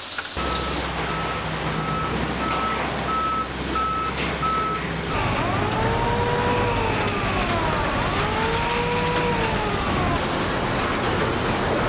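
Heavy machinery running with a steady low drone, with a backup alarm beeping about one and a half times a second for the first five seconds or so. After that, two slow rising-and-falling wails sound over the engine noise.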